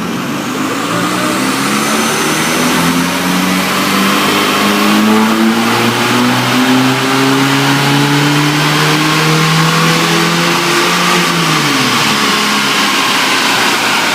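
Car engine revving, its pitch climbing slowly for several seconds and then holding high before it drops away near the end.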